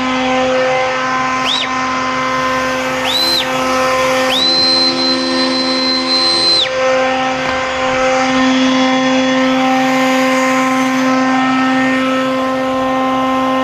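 Steady motor hum with an even pitch throughout. A high whistling tone slides in and out three times, the last one held for about two seconds.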